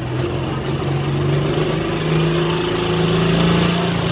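Modified John Deere pulling tractor's engine running loud and steady, its note creeping slowly upward in pitch, as the tractor fails to come off the line properly: a clutch issue, as the announcer has it.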